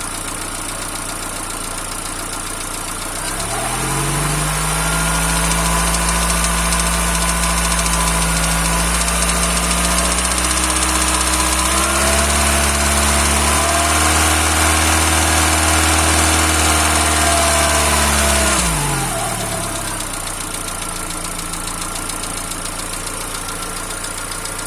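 A Peugeot/Citroën TU5JP4 1.6-litre 16-valve four-cylinder petrol engine, running cold, idles, is brought up to a raised speed a few seconds in, stepped up once more, held, and dropped back to idle after about fifteen seconds. It is in the cold state in which the owner reports a knock that fades once the engine is warm.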